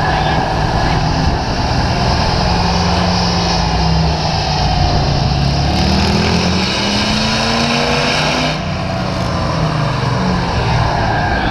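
Turbo diesel pickup running on a chassis dyno: the engine pitch climbs through a pull over a strong high whine, then drops away sharply about eight and a half seconds in as the throttle is released.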